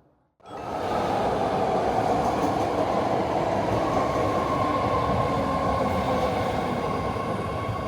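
BART yellow line train running: a steady rumble and hiss with a thin high whine that grows stronger about halfway through.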